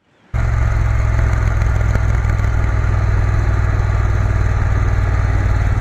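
Triumph Bonneville T120's parallel-twin engine running steadily, cutting in suddenly just after the start.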